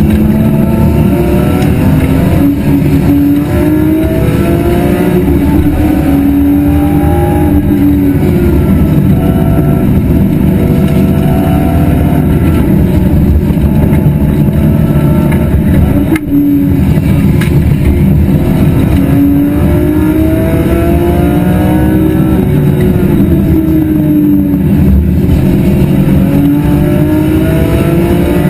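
Loud BMW E46 M3 S54 straight-six engine under racing load. Its pitch climbs again and again under throttle and falls back at each gear change or lift, over a steady low rush.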